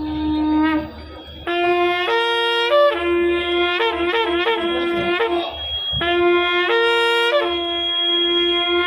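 Wind instruments playing loudly: a low note held almost throughout, with higher notes stepping and quickly repeating above it in short phrases. The sound dips briefly about a second in.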